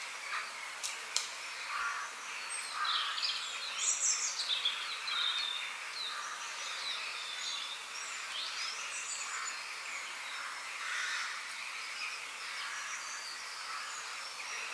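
Mixed wild birdsong: several birds chirping and warbling in short, overlapping phrases over a steady high hiss of outdoor background noise.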